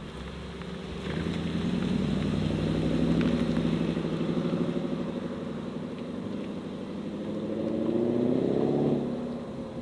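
A modified car's engine pulling away. It gets louder about a second in, eases off in the middle, then revs up with a rising pitch and drops off sharply just before the end.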